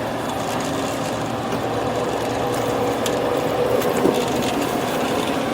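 Bumper boat's small motor running steadily, a constant mechanical hum with a few steady tones.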